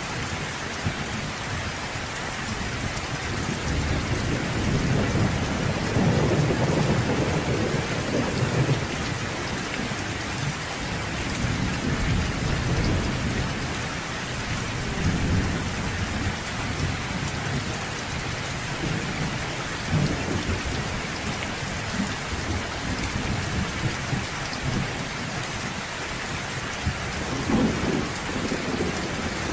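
Steady rain falling, with low rolls of distant thunder swelling about a few seconds in and again near the end.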